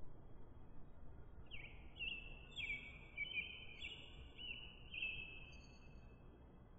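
Faint bird chirping: a run of quick, repeated chirps starting about one and a half seconds in and lasting about four seconds, over a low steady hiss.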